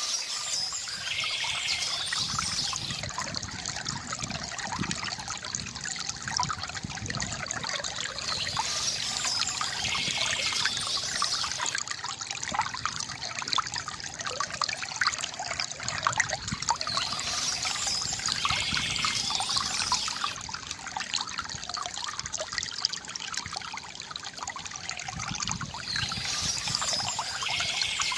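Water from a bamboo fountain trickling and splashing steadily, with a brighter high patch that comes back about every eight to nine seconds.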